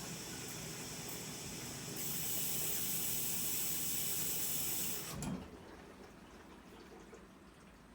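Sharp ES-S7B drum washing machine taking in water: a steady hiss of water running into the drum that grows louder about two seconds in, then cuts off suddenly about five seconds in with a low thud, leaving a quieter hum.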